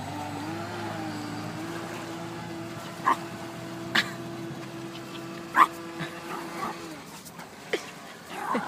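Twin brushless electric motors of an RC boat running at a steady throttle: a steady whine that wavers briefly at the start, holds, then stops about seven seconds in, with a few sharp clicks along the way.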